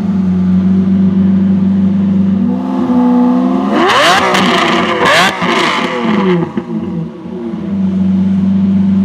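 Supercar engine idling steadily, then revved hard twice in quick succession about four and five seconds in; the pitch falls back to idle.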